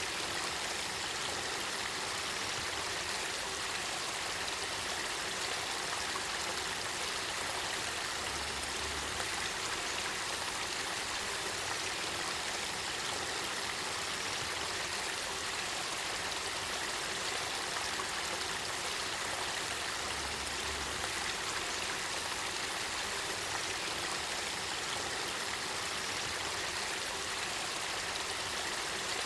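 Spring-fed river water flowing and babbling, a steady even rush of water.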